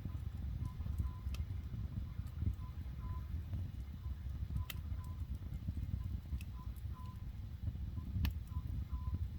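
Campfire crackling, with a few sharp pops over a low steady rumble, while a bird repeats short notes of the same pitch every second or so, often in pairs.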